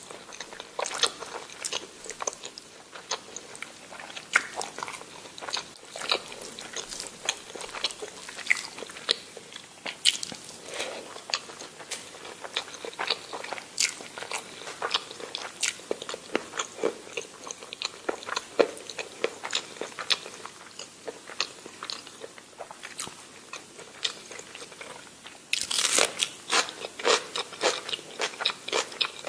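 A person eating: steady biting and chewing, with many small wet clicks and crunches, and a louder stretch of crunching bites a little before the end.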